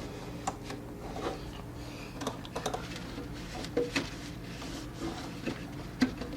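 Light scuffing, wiping and scattered small clicks and knocks of hand-cleaning dust from around a refrigerator's condenser, over a steady low hum.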